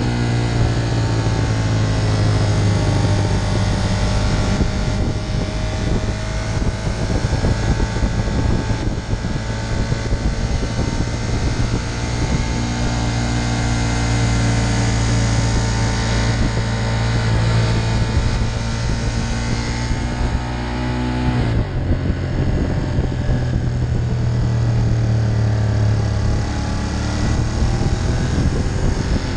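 Ducati Monster 1200's L-twin engine running at steady road speed, heard from the rider's seat with rushing wind noise. About two-thirds of the way through, the engine note climbs briefly and then drops sharply.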